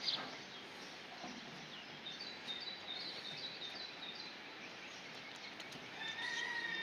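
Small birds chirping in a quick run of short high notes, then a longer, steady pitched animal call near the end.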